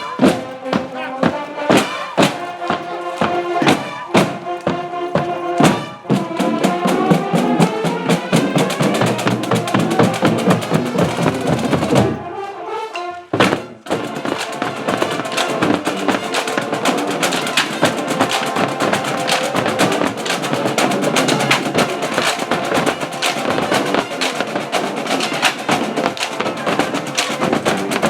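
High school marching band playing: brass chords over a drumline, with sharp drum hits in the first few seconds. There is a short break about twelve seconds in, then the band resumes with fast, dense drumming under the brass.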